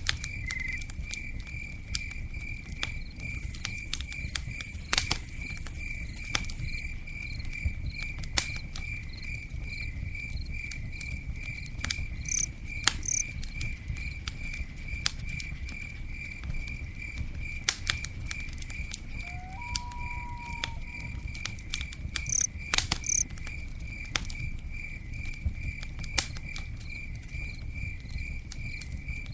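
Campfire crackling, with sharp pops over a low steady rush of burning wood, and a cricket chirping in a steady, even rhythm.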